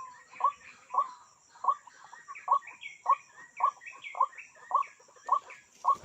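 A bird calling over and over, short downward-sweeping calls at about two a second.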